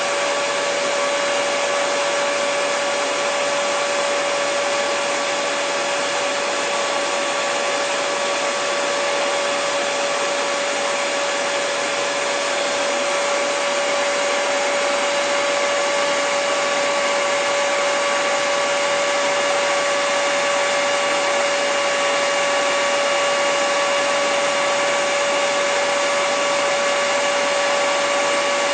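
Electric hair dryer running steadily: an even rush of blown air over a constant motor whine, with no change in speed or setting.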